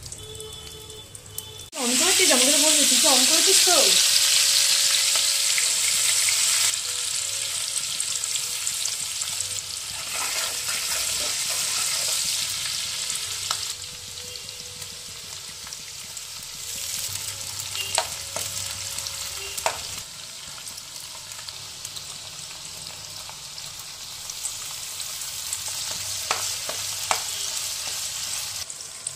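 Chopped onions and whole spices tipped into hot oil in a kadai, setting off a loud sizzle that starts suddenly about two seconds in and settles after a few seconds. The frying swells again when ginger paste is added. Spatula ticks against the pan now and then near the end.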